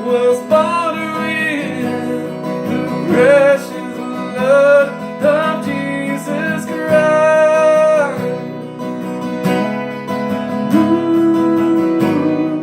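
Worship song performed by a man: drawn-out, wavering sung notes over strummed acoustic guitar. The voice falls away after about eight seconds while the guitar plays on.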